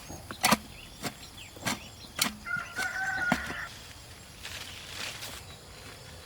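Chickens calling, with one drawn-out, steady-pitched call of a little over a second near the middle, over a run of about six sharp knocks in the first three and a half seconds.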